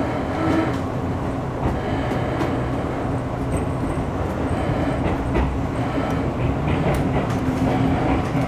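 Tobu Railway train running, heard from inside the carriage: a steady rumble of wheels on the track with a few short clicks.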